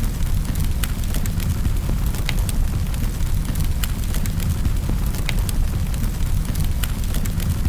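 Wood fire burning in a fireplace: a steady low rumble of the flames with scattered sharp crackles and pops, several a second.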